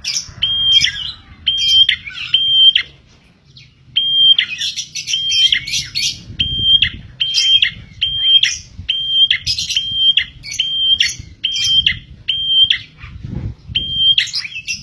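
Prenjak (Indonesian prinia) calling loudly. It repeats a steady, high, piping note with quick trailing notes, about two a second, and pauses briefly around three seconds in.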